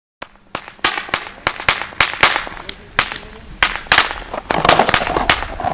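El Gato Sustos Trueno firecrackers (category F3) going off in a rapid, irregular series of over a dozen sharp bangs.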